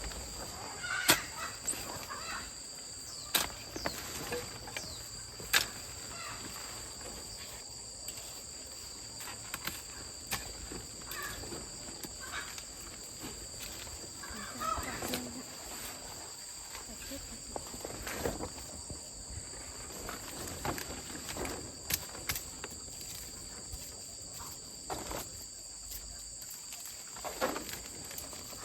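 Steady high-pitched insect drone, with scattered sharp knocks and scrapes through it.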